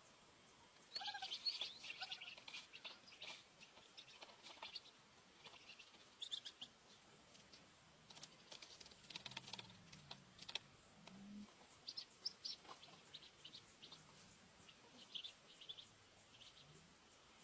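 Small birds chirping in short, high clusters that come and go, over a quiet background.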